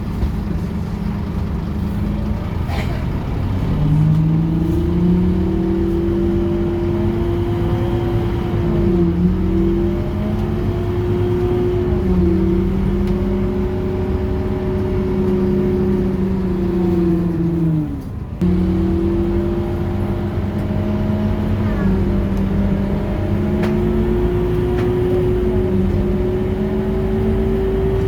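Scania K230UB city bus's diesel engine pulling under load. Its pitch climbs and then drops at several gear changes, with one abrupt change about two-thirds of the way through.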